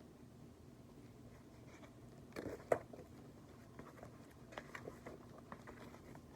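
Picture book being handled: a brief paper rustle with a sharp click about two and a half seconds in as a page is turned, then a few light handling clicks.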